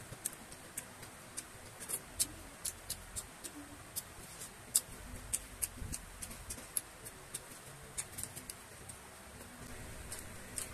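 A person chewing food close to the microphone, with irregular sharp wet mouth clicks and smacks, two or three a second.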